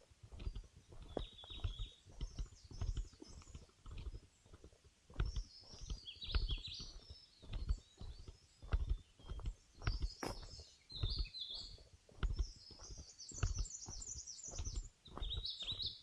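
Footsteps on a forest trail, about one to two a second, with several wild birds singing and chirping at intervals.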